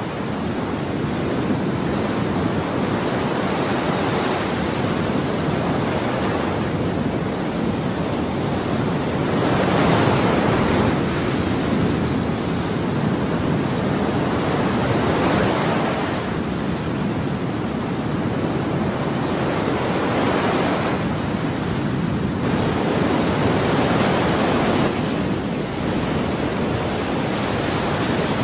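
Ocean waves washing onto a shore, a continuous rushing surf that swells and eases every few seconds as each wave breaks and recedes.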